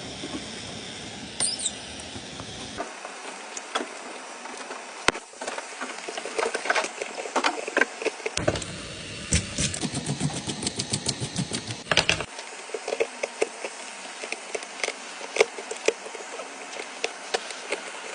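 Small clicks and taps of phone-repair handling, with a buzzing small motor for about four seconds in the middle, under a rapid run of clicks.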